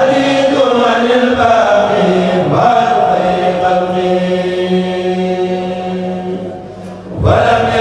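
Kourel group chanting a Mouride xassaide in unison, on long held notes; the voices drop off briefly near the end and then come in again on a new phrase.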